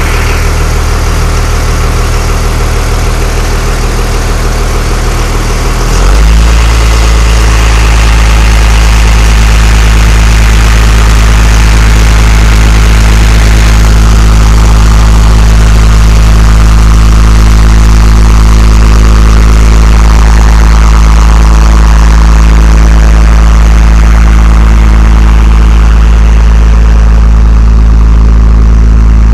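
1995 GMC Top Kick dump truck's engine running steadily at idle; about six seconds in the sound steps up to a louder, deeper steady hum and stays there.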